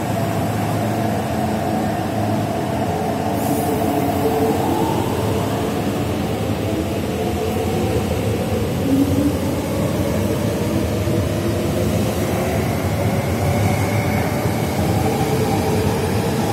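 An MTR East Rail Line R-Train, a Hyundai Rotem electric multiple unit, pulling out of the station: a steady running rumble with an electric motor whine that climbs in pitch as the train picks up speed.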